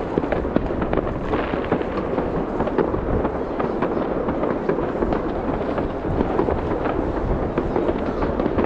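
Many fireworks going off at once: a dense, unbroken run of bangs and crackles over a rumble.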